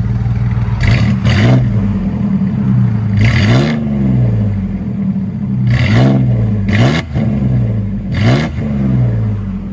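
Ford Ranger 3.0L V6 with a dual exhaust idling, then revved in about six quick blips that rise and drop back to idle.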